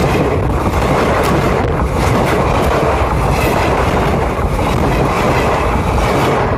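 Passenger train coaches rolling directly over the track above: a loud, steady rumble of wheels on rails with sharp, irregular clacks as wheels strike the rail joints.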